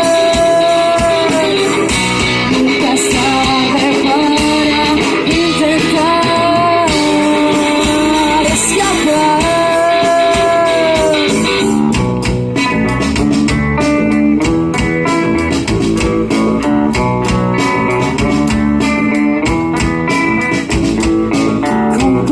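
Live rock band playing, with guitar. Long held, slightly bending melody notes for about the first half, then a choppier rhythmic passage of quick short strokes.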